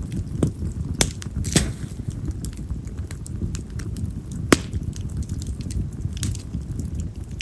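Split wild cherry (yamazakura) firewood burning in an open fire: a low, steady rumble of flame with scattered sharp crackling pops. The loudest pop comes about four and a half seconds in.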